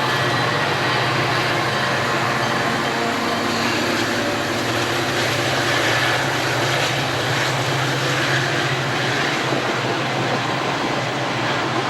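A train rolling past at close range: a diesel locomotive's engine hum fades about three seconds in, leaving the steady loud rumble of the passing cars.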